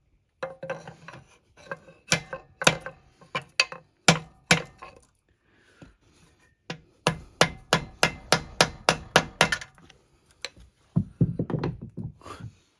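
Repeated sharp knocks from hand-tool work, about two to three a second in runs, with a pause about halfway and a denser flurry near the end.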